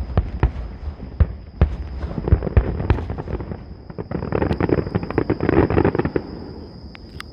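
Aerial fireworks bursting: a rapid string of sharp bangs, then about two seconds of dense crackling that dies away near the end.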